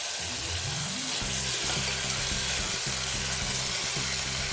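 Sliced onion and tomato sizzling steadily in hot oil in an aluminium pressure cooker, with a plastic slotted spatula stirring and scraping through it in the second half.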